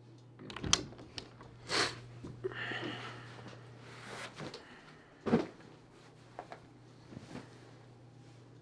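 A few scattered knocks and thumps, the loudest about a second in and again past five seconds, with a short rustle between them, over a steady low hum.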